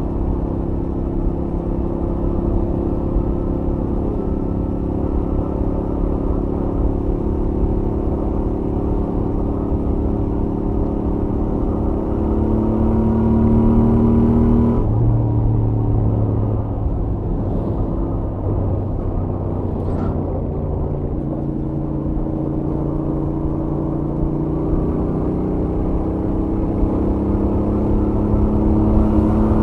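Royal Enfield Interceptor 650's stock 648 cc parallel-twin engine and exhaust under way at highway speed. Its pitch climbs steadily for about fifteen seconds, drops suddenly, then climbs again over the last several seconds.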